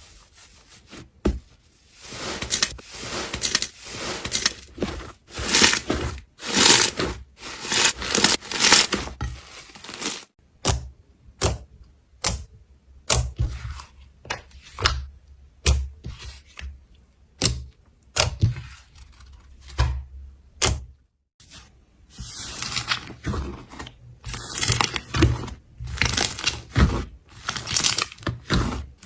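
Slime being handled, with irregular bursts of crackling and squishing and many short sharp clicks and pops.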